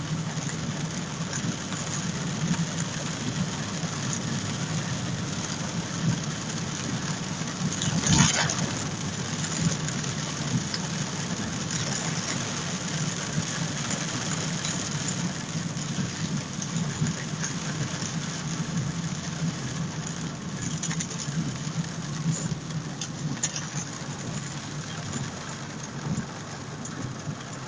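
Heavy rain with a steady low car engine hum underneath. A brief louder surge comes about eight seconds in.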